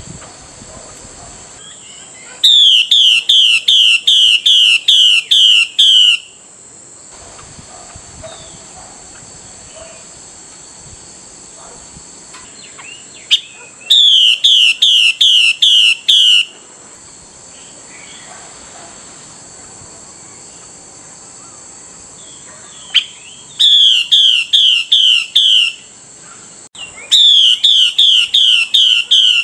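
Female Chinese hwamei calling a male: four bouts of loud, quickly repeated, downslurred whistled notes, about three a second, each bout lasting two to four seconds. A steady high hiss runs underneath.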